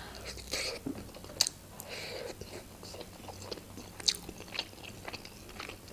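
Close-up eating sounds of a person biting into and chewing a meat-filled khinkali dumpling, with occasional sharp little clicks.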